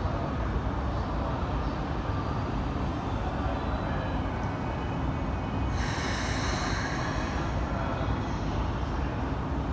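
Steady low rumble of trains standing at a busy station platform. About six seconds in, a sharp hiss of released air starts abruptly and lasts about two seconds: a train's air brakes releasing ahead of departure.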